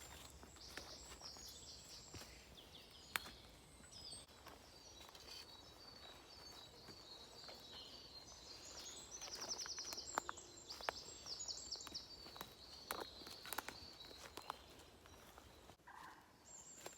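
Faint woodland birdsong: high chirps and quick trills from small birds, busiest in the middle, with scattered soft snaps and footsteps on the woodland floor.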